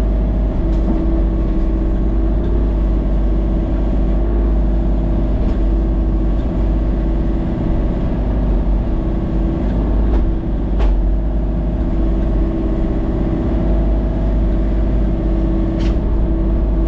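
Excavator engine running steadily with a deep rumble and a constant hum, while the machine works along the trail.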